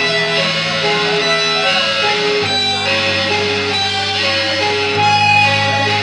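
Death metal band playing live: distorted electric guitars pick a repeating melodic line over sustained low bass notes, which shift to new notes about two and a half seconds in and again near the end.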